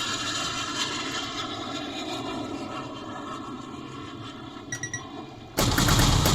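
Jet airliner takeoff sound effect played by a custom pinball sound board: a steady engine rush. Near the end there are two short high beeps, then a sudden, much louder surge of noise.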